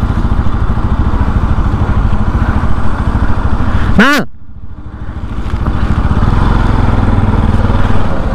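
Bajaj Pulsar NS200's single-cylinder engine running while the motorcycle is ridden, with wind noise. About four seconds in, a short tone bends up and down. The sound then drops sharply for about a second before the engine and wind come back.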